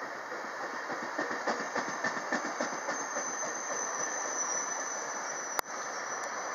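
GO Transit bi-level commuter coaches rolling past as the train pulls away, their wheels clicking over the rail joints in a quick rhythm. A thin high whine comes in about halfway through, and there is a single sharp click near the end.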